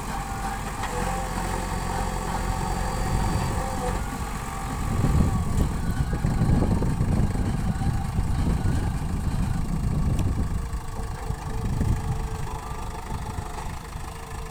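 JCB 3DX Super backhoe loader's diesel engine running steadily, then growing louder and uneven from about five seconds in as the revs rise and fall.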